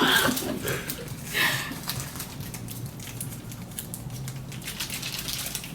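Light clicks, taps and rustles of kitchen utensils and food being handled during noodle preparation, over a low steady hum.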